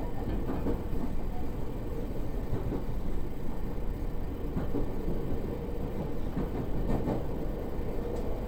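Running noise heard inside a Narita Line commuter train car: a steady rumble of wheels on rails, with occasional short knocks.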